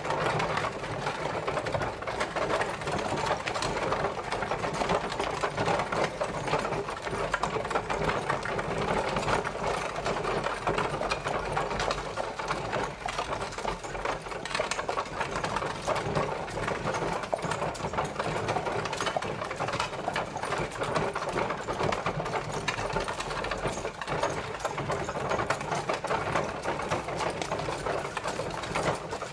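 Horse-drawn carriage on the move: a steady, dense clatter and rattle of the wheels and coach.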